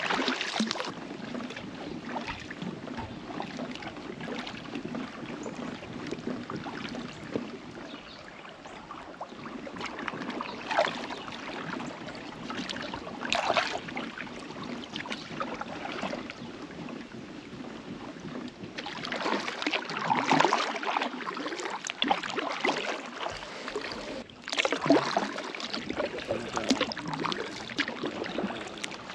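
Kayak paddle blades dipping and splashing in river water, stroke after stroke, with the strokes louder and closer together in the last third.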